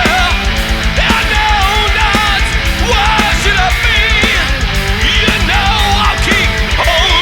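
Heavy metal music: distorted guitars over fast, driving drums, with a lead line that bends and wavers in pitch.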